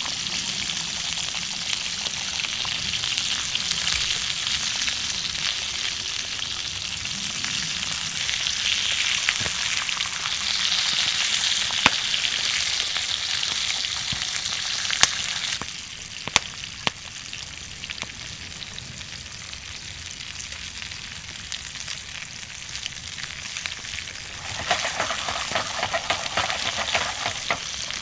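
Steak sizzling over a wood fire, a steady hiss with scattered sharp pops, growing quieter about halfway through.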